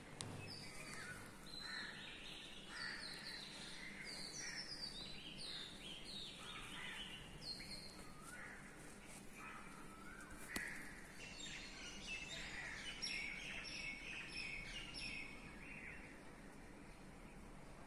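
Faint birds chirping: many short, quick calls that fall in pitch, overlapping one another over a light steady hiss.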